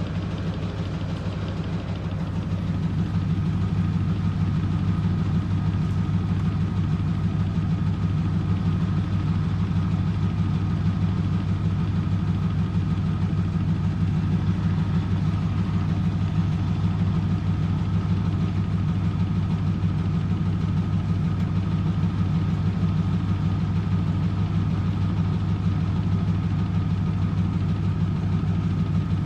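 Eurotech EW 450 front-loading washing machine spinning at a steady 400 rpm, with a low, even mechanical hum. The hum grows a little louder about two to three seconds in, then holds steady.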